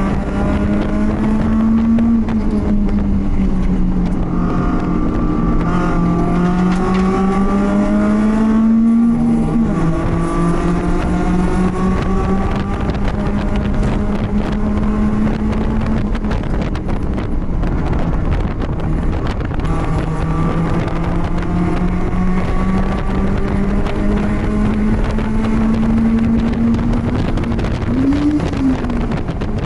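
BMW race car engine heard on board under load. Its pitch climbs slowly and drops sharply at a gear change about nine seconds in, with a quick rise and fall near the end, over wind noise.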